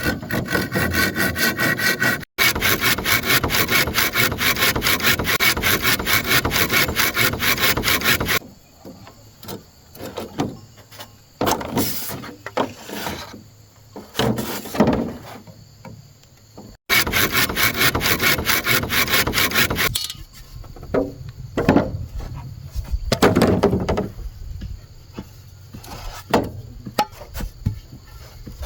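Hand saw cutting through bamboo in rapid, even strokes. There are two long runs of sawing, broken by quieter stretches of scattered knocks and scrapes.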